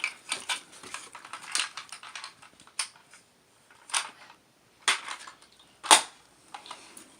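Plastic toy pieces being handled: a few separate sharp clicks and knocks, roughly a second apart, with faint rustling between.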